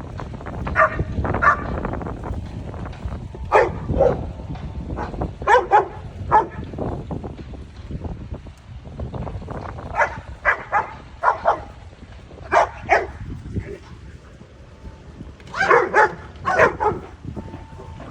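Dogs barking in play, in quick clusters of two or three short barks with pauses between. The busiest burst comes near the end.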